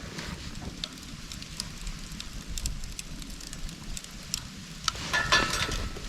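A bundle of split, dry bamboo burning as a Swedish torch: the fire crackles with scattered pops over a low rumble. About five seconds in it grows louder, with a brief whistling tone.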